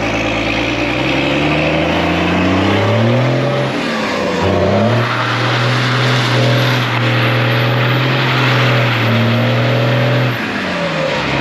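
A vehicle engine revving up, dipping briefly about four seconds in, then held high for about five seconds before the revs fall off near the end. A steady hiss runs through it, fitting tyres spinning on wet pavement during a donut.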